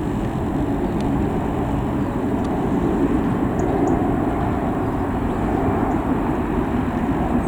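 Airbus A319 airliner's jet engines, a steady low rumble with no sharp changes.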